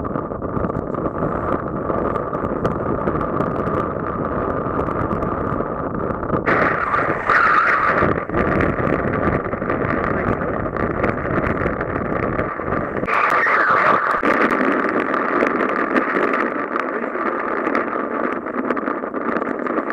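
Wind blowing over the microphone aboard a Mirror sailing dinghy at sea: a steady rushing noise with a faint steady tone, changing abruptly about six and a half and thirteen seconds in.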